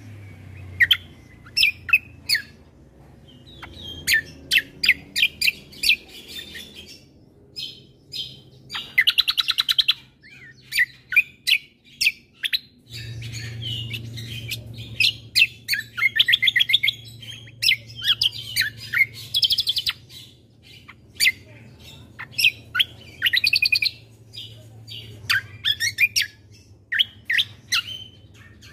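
Cucak kombo (kecial kombo) songbird singing a rapid, varied song of sharp high chirps broken by several fast buzzy trills, over a faint steady low hum.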